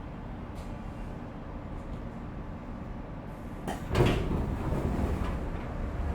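415-series electric train's passenger doors opening, a click and then a loud pneumatic thud with a short hiss about four seconds in, over the steady low hum of the train standing in a station.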